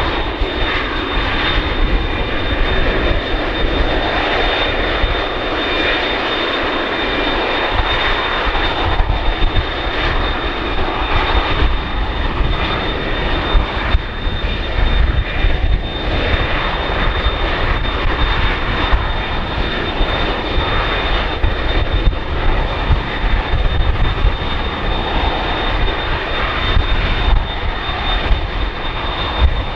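McDonnell Douglas MD-11F tri-jet freighter's engines running, a steady high whine over a continuous rumble.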